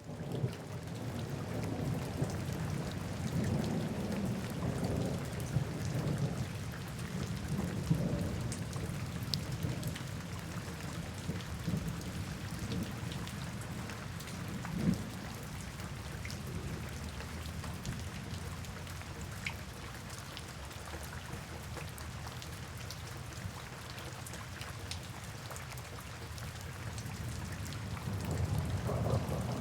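Steady rain with individual drops ticking, layered over deep brown noise. A low rumble swells through the first several seconds, eases off, and builds again near the end.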